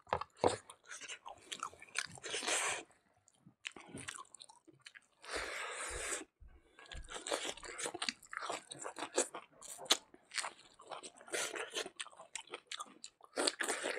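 Close-miked mukbang chewing and crunching: a man eating pig snout with rice and cucumber, with irregular wet, crackly mouth sounds and short pauses between mouthfuls.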